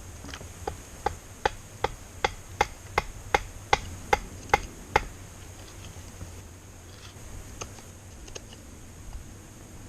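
A steady run of about a dozen sharp chopping strikes on wood, a little under three a second, stopping about five seconds in. A few scattered lighter knocks follow.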